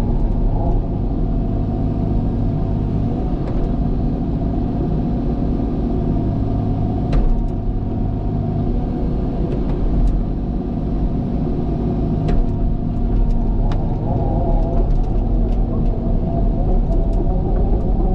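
Cat excavator's diesel engine running steadily while it works, with a few sharp knocks scattered through, as from the bucket striking rock.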